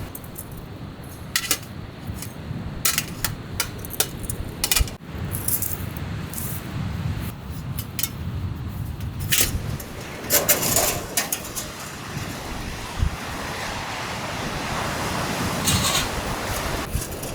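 Camping gear being handled during tent setup: a scattered series of sharp metallic clinks and jingles, with a denser cluster about ten seconds in, over a steady low rumble.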